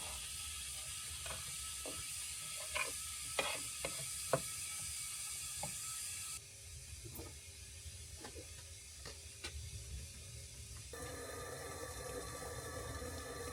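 Scattered light clicks and knocks of handling over a steady hiss, with the background changing abruptly twice.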